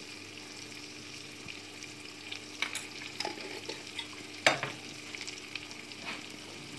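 Potatoes and thick spice paste sizzling in an aluminium kadai over a gas flame, a steady frying hiss, with a few sharp taps, the loudest about four and a half seconds in. The masala is well roasted onto the potatoes at this stage, with little moisture left in the pan.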